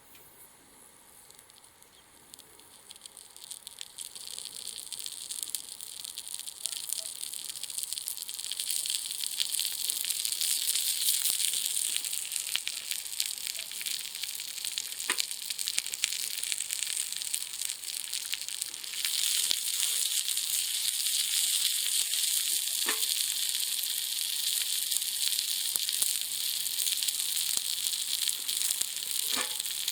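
Steady sizzling and crackling over the wood fire in a tab. can stove. It builds up from near quiet over the first ten seconds or so, with a few sharp clicks later on.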